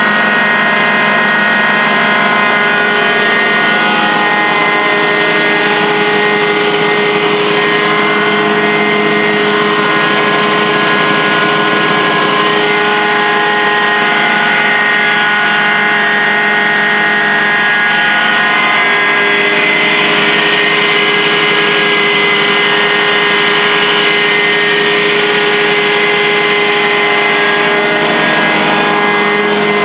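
Carpet-cleaning truck-mount extractor running steadily, a loud, constant machine drone with several held tones.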